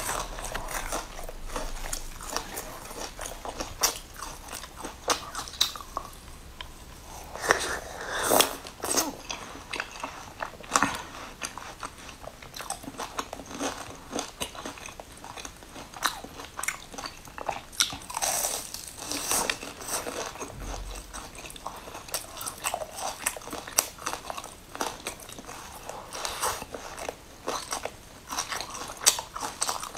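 Close-up eating sounds: a person biting and chewing a crisp pastry, with steady irregular crunching and crackling and a few louder crunches through the stretch.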